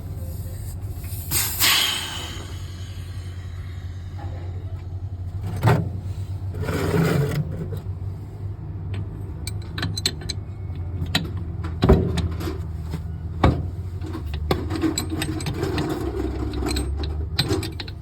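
Repair work on bus air-suspension parts: scattered metal knocks, clicks and scraping, with two short noisy hissing bursts, over a steady low hum.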